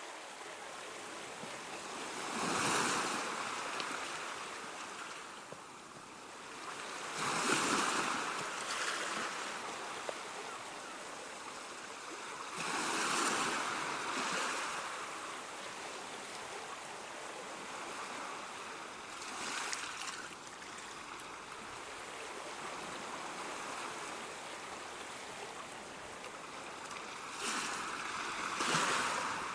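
Ocean waves breaking and washing ashore, each surge swelling and fading over a few seconds, five in all, over a steady hiss of surf.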